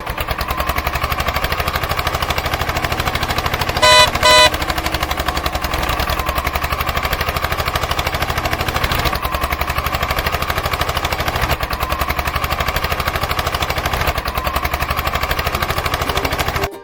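Mini tractor's small engine running steadily with a fast, even chugging beat, and two short horn beeps about four seconds in.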